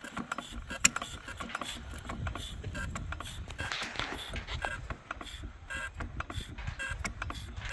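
1893 Henry Ford single-cylinder engine running unevenly, a quick irregular clatter of clicks and knocks with one sharper knock about a second in. It is hard to keep running, real touchy, and a half notch of adjustment makes the difference.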